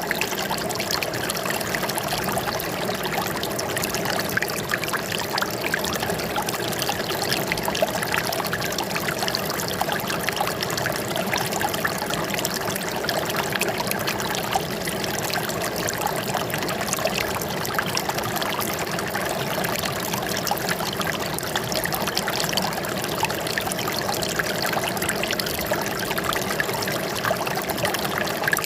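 Running water trickling and splashing steadily, like a small stream flowing over stones.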